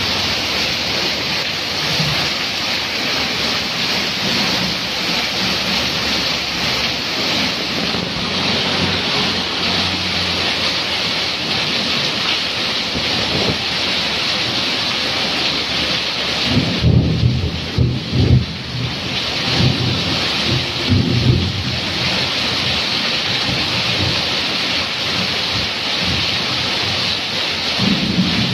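Heavy rain falling steadily, with water pouring off a roof edge onto wet pavement. Thunder rumbles for several seconds about two-thirds of the way through, and again near the end.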